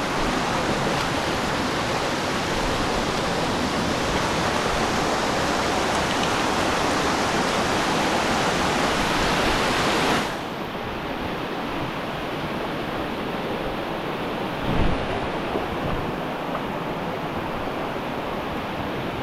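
Rushing river water, a steady dense roar of flowing water over rocks. About halfway through it abruptly becomes softer and duller, and a single low thump follows a few seconds later.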